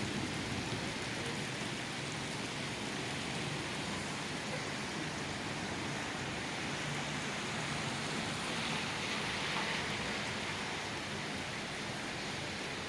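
Steady rain falling in a thunderstorm, an even hiss with no thunderclaps, swelling slightly about two thirds of the way through.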